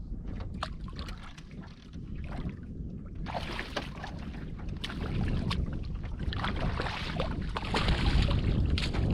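Fishing boat moving on a lake: a steady low rumble of wind on the microphone with water splashing, growing louder over the last few seconds.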